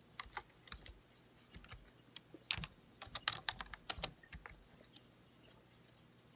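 Chewing food close to the microphone: faint, irregular small mouth clicks and smacks, bunched in the middle.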